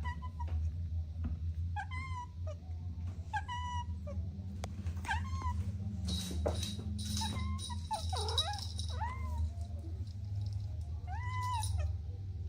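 Kittens mewing again and again: short, high calls that rise and fall in pitch, about one every second or two, over a steady low hum. A stretch of hissy noise comes about halfway through.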